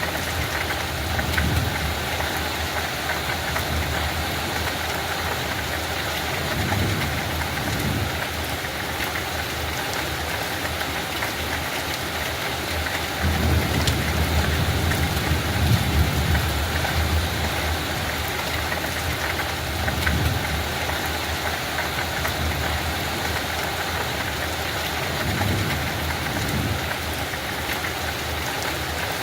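Steady light rain falling on a field, an even hiss of drops. A low rumble swells and fades several times underneath, longest and loudest about halfway through.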